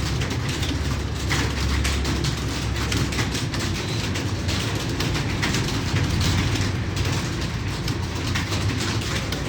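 Several computer keyboards being typed on at once during a timed typing test: a dense, irregular clatter of overlapping key clicks over a steady low hum.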